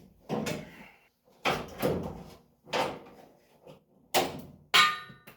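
Hand work on a rubber oil cooler hose and its fitting: a series of scraping, rustling handling noises, then a sharp knock with a short metallic ring near the end.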